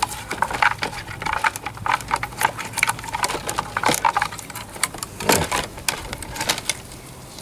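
Rapid, irregular clicking and light knocking of small metal parts and tools being handled, over a faint steady hum.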